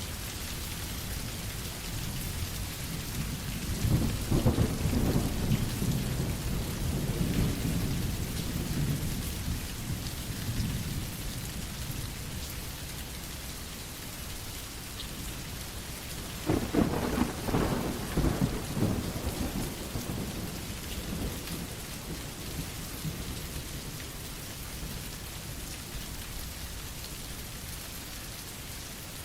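Steady rain with two rolls of thunder: a rumble swelling about four seconds in and dying away over several seconds, and a sharper clap about halfway through that rumbles off.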